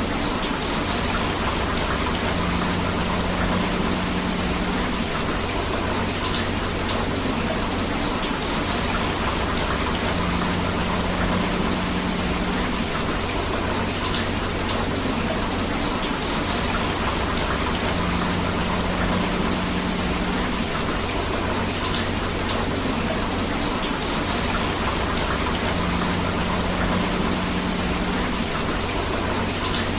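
Steady rain with flowing river water, an even, continuous hiss of water. A faint low hum swells for a couple of seconds about every eight seconds.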